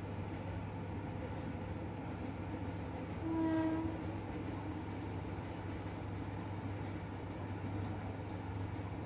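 Microwave oven running with a steady low electrical hum and fan noise. A short pitched tone sounds once, about three seconds in.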